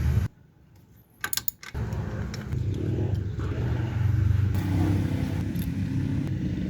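Rusi Pulse 150Fi scooter's single-cylinder engine running steadily. It drops out just after the start, a few sharp metallic clicks like keys follow about a second and a half in, and then it runs steadily again.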